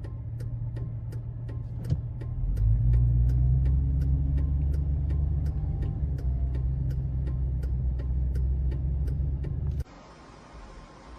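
Car rumble with a steady ticking about three times a second over it; the rumble grows louder a couple of seconds in, then cuts off suddenly near the end, leaving a faint hiss.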